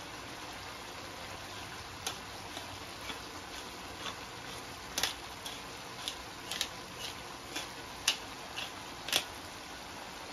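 Mung bean sprouts and vegetables frying in a nonstick wok, nearly cooked: a low, steady sizzle with irregular sharp pops and crackles, about one or two a second.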